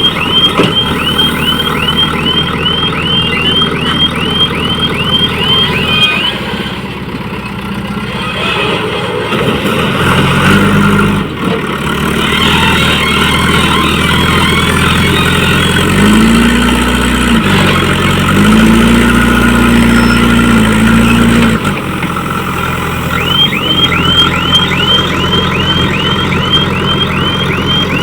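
Heavy diesel engine running, revving up twice under load in the middle, while a reversing alarm chirps rapidly, about two to three chirps a second, at the start and again near the end.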